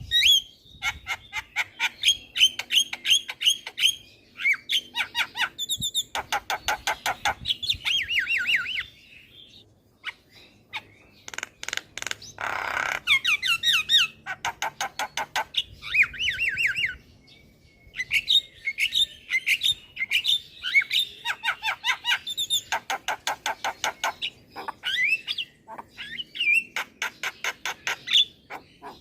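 Javan myna singing a long, busy chatter of rapidly repeated sharp notes mixed with whistles, with a harsh squawk about halfway through and brief pauses between phrases.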